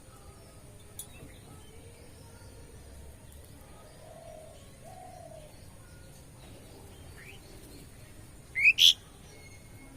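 Wild birds calling outdoors: soft low calls in the middle, then two loud, sharp high calls in quick succession near the end.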